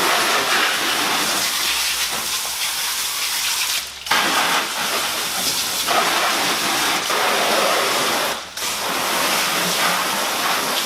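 Pressure washer spraying, rinsing all-purpose cleaner off a brake caliper and wheel hub with a steady hiss that stops briefly twice.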